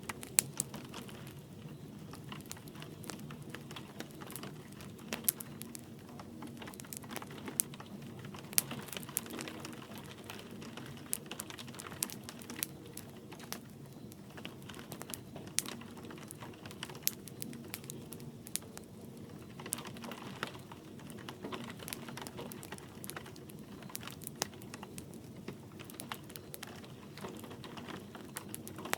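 Wood fire crackling in a fireplace: irregular sharp snaps and pops, some much louder than the rest, over a steady low hiss of flame, mixed with light rain pattering.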